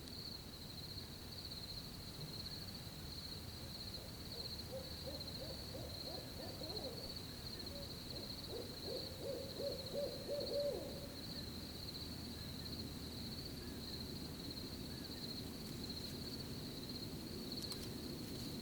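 An owl calling in a quick run of pulsed hoots, loudest about ten seconds in, over a steady high chirring of crickets.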